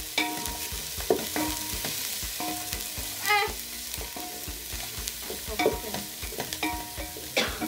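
A wooden spoon stirring chopped onions and green pepper frying in an aluminium cooking pot: frequent knocks and scrapes of the spoon on the pot over a steady sizzle. A brief wavering high sound about three seconds in.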